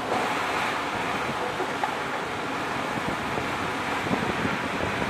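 Heavy rain pouring down in a sudden downpour: a dense, steady hiss that gets a little louder right at the start.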